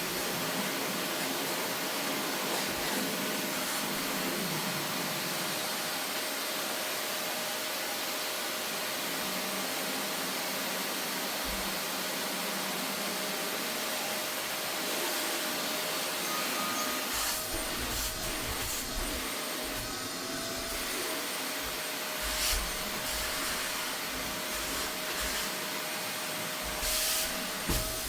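Vacuum cleaner running steadily, a constant motor whine over its airflow hiss, as it is worked over sofa upholstery. From about two-thirds of the way in, uneven low bumps and rubbing sounds come and go as the nozzle is pushed across the cushions.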